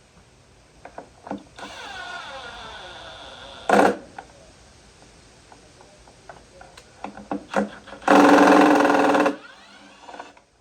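A cordless drill/driver running in short bursts while driving screws: a brief burst about four seconds in, then a pitched run of about a second near the end that winds down after it stops. Light clicks and taps of parts being handled come between.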